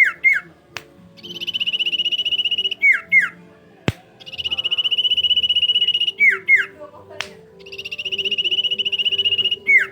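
Sirpu bird song on a repeating phrase: a fast, even trill around a high pitch held for about a second and a half, then two or three quick whistles sliding downward, coming round about every three seconds. A single sharp click sounds about four seconds in.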